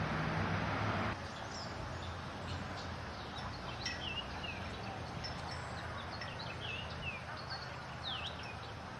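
Small birds chirping in short, repeated calls over steady outdoor background noise. The noise is louder for the first second.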